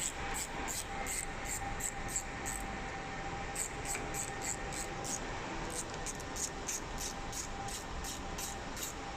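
Repeated short, high-pitched rasping ticks, about three to four a second with a brief pause about three seconds in, as the belt-tension screw on a printer carriage is worked loose with a hand tool, over a steady faint hum.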